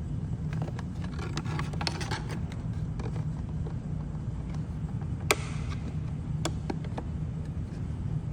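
Small clicks and rattles of parts being handled and fitted back in place, with one sharper click about five seconds in, over a steady low hum.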